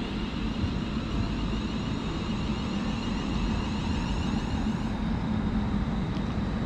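Class 350 Desiro electric multiple unit pulling into the platform: a steady rumble with a low hum and a high traction-motor whine that falls away as it brakes, dying out about five seconds in.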